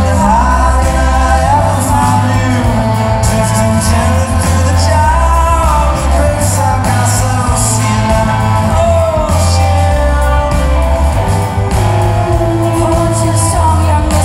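Live band music: a gliding melody line, sung or played, over steady bass notes that change every second or two.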